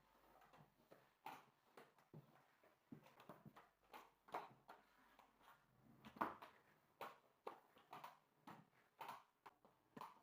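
Faint, irregular light knocks and clicks of household objects being handled and set down, about two a second, the loudest about six seconds in.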